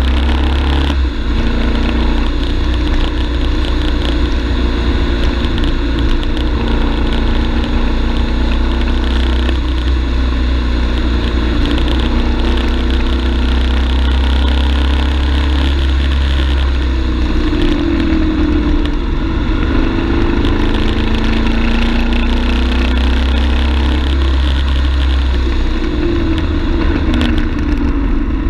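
BMW F 850 GS parallel-twin motorcycle engine running under way on a winding road, its pitch rising and falling several times in the second half as the throttle opens and closes, over a deep rumble that drops away for a few seconds past the middle.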